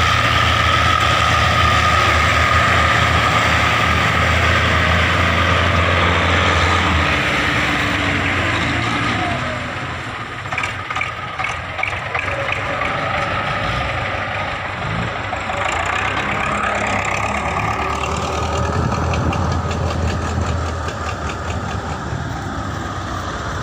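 Belarus tractor's diesel engine running. Its deep low hum is strong for the first several seconds, drops away about seven seconds in, and the sound turns lower in level around ten seconds before the heavier hum returns in the later part.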